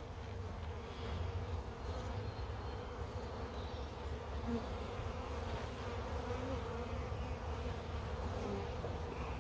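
Honey bee swarm buzzing steadily around an open hive box.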